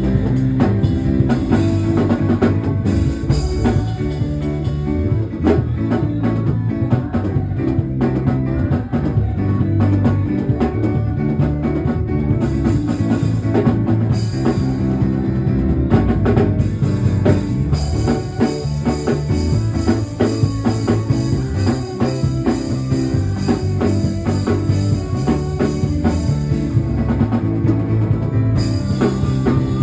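Live band music with drum kit, bass and guitar, playing steadily at full volume without singing.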